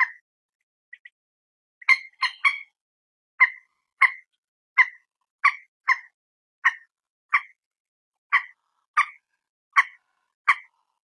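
Common moorhen (mandar batu) calling: short, sharp clipped notes repeated in a steady series about every two-thirds of a second, after a quick faint pair of notes and a brief cluster of three near the start.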